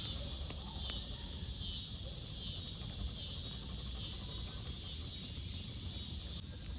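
Insects chirring steadily in two high layers, one of which drops out near the end, over a low background rumble.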